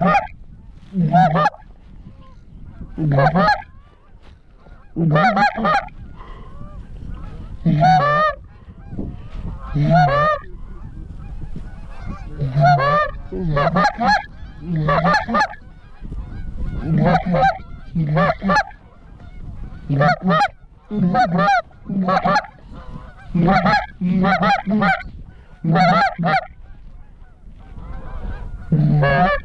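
Goose calls being blown to work Canada geese: a long series of honks and clucks, each breaking from a low note to a high one, roughly one every second or two. A low wind rumble runs underneath.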